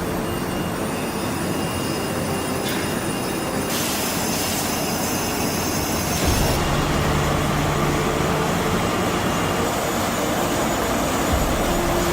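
Industrial factory machinery running with a loud, steady mechanical rumble and clatter that changes in character a few times.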